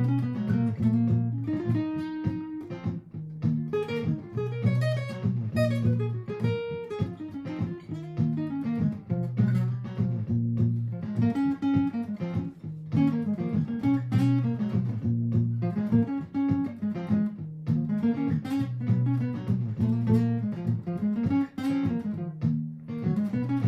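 Martin GPCPA4 acoustic guitar layered through a looper pedal: a repeating looped rhythm part in the low strings with improvised single-note lines picked over it.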